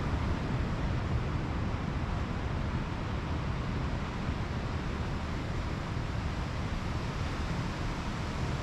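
Steady rush of Pacific Ocean surf with wind on the microphone, an even roar with no single wave breaking out of it.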